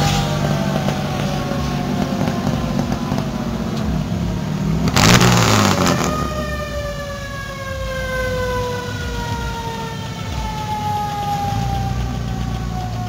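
Engines of a line of 1940s American cars rumbling at low speed as they roll past. A siren-like wailing tone falls slowly in pitch over the engine sound, and there is a brief, loud hissing burst about five seconds in.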